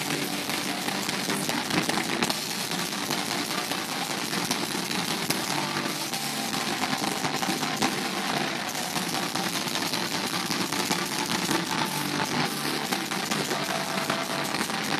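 A heavy rock band playing live: distorted guitars and drums, overloaded by the recording into a harsh, dense wash of sound.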